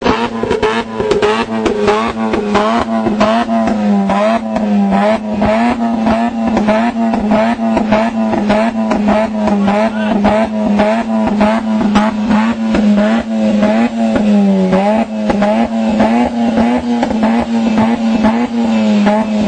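Mazda RX-8's twin-rotor rotary engine through a cat-back exhaust, held at high revs at a nearly steady pitch, dipping briefly near the end. Rapid pops and crackles come from the exhaust all the way through, with unburnt fuel igniting in the pipe and throwing blue flames.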